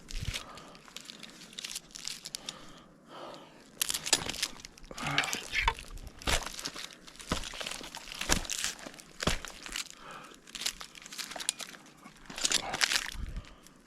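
Climbing spurs biting into pine bark and scraping against the trunk: irregular crunching and scratching, with a sharp crunch every second or so.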